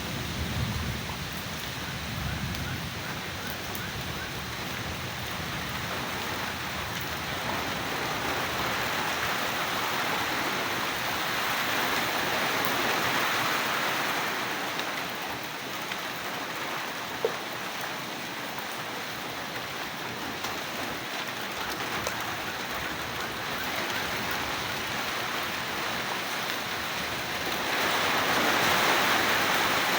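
Steady heavy rain hissing, swelling for a while in the middle and growing louder near the end, with a brief low rumble in the first few seconds and a single sharp click partway through.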